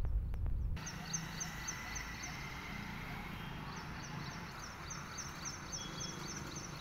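Outdoor ambience with a small bird chirping rapidly and evenly, about four high chirps a second, over a steady hiss. A brief low rumble with two clicks comes just before, under a second in.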